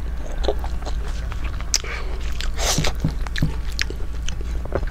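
Close-miked chewing of a mouthful of rice and curry eaten by hand, with many short wet mouth clicks and lip smacks and a few brief breathy bursts, over a low steady hum.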